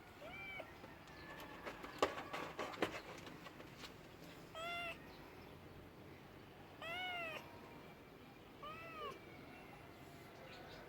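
Cat meowing four times, short calls that rise and fall in pitch, the third the longest. A few sharp clicks or knocks sound between the first two meows.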